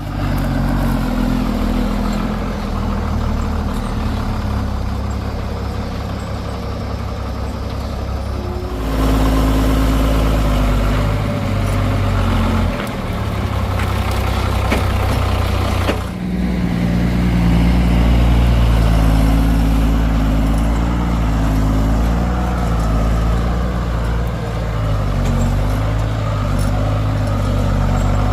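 Heavy diesel machinery engine running under work load, its pitch shifting up and down, with abrupt changes in the sound about nine and sixteen seconds in.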